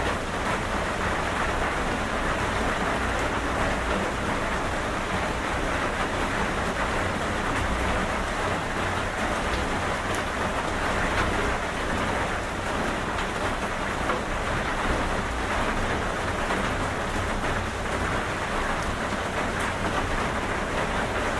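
Steady, heavy rain falling, an even hiss of dense drops with a continuous low rumble beneath it.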